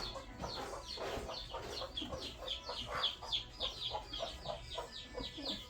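Birds calling continuously: a rapid run of short, high, falling chirps, several a second, with lower calls mixed in beneath.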